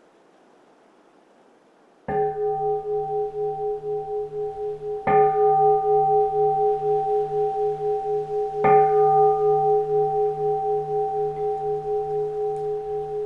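Keisu, a Zen temple bowl bell, struck three times about three seconds apart, starting about two seconds in. Each strike adds to a long ringing of several steady tones that pulse slowly as they fade.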